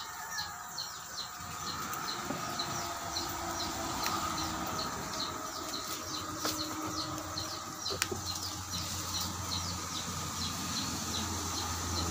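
A bird chirping in a steady run of short, high, falling notes, about three a second. A few sharp clicks and a low hum that grows near the end lie beneath it.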